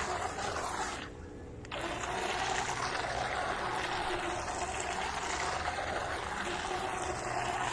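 Toy remote-control boat running in water: a steady small-motor whine over churning, splashing water, the splashing dropping out briefly about a second in.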